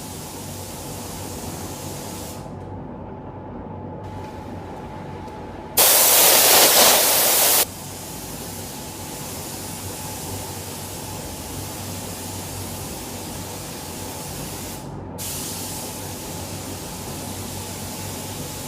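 Steady hiss of air with a faint hum, then a loud, even burst of spray from a compressed-air paint spray gun lasting about two seconds, about six seconds in. The high hiss drops away briefly twice.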